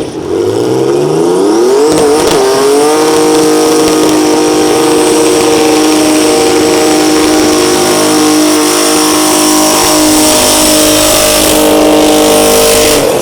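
Cortina's twin-turbo, supercharged 4.0-litre Ford Barra straight-six revving up over about three seconds, then held flat out at steady high revs during a burnout. The revs drop away right at the end.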